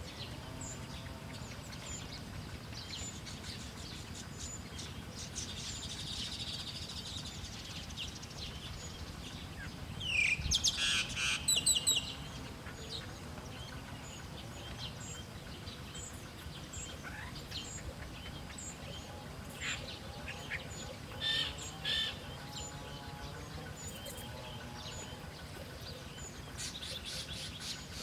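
Small birds chirping and twittering in short high calls, with a louder run of sharp calls about ten seconds in and a few more short calls around twenty seconds in.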